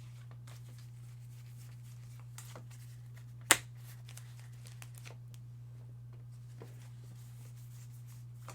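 Baseball trading cards being handled and slid through the hands, a run of faint rustles and ticks, with one sharp snap about three and a half seconds in. A steady low electrical hum sits underneath.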